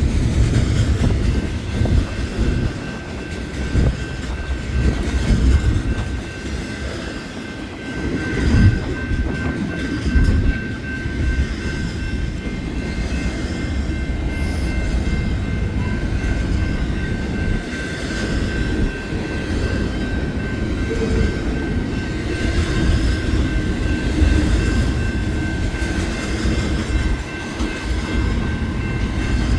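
BNSF intermodal freight train passing close by, a heavy steady rumble of locomotives and cars on the rails, with faint steady high-pitched ringing tones over it from about a second in.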